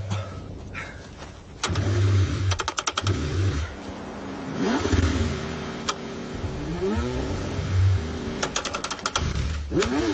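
Car engine cranking on its starter in repeated bursts, struggling to start in the cold. Two quick runs of rapid clicking come in between.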